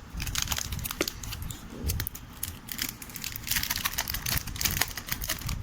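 Plastic packaging crinkling and rustling in irregular crackles as a new smartphone in its wrapping is handled.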